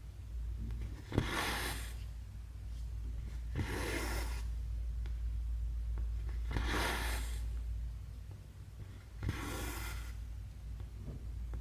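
Embroidery floss drawn through cross stitch fabric: four hissing swishes, each under a second and opening with a sharp tick as the needle goes through, about every two and a half to three seconds, over a steady low hum.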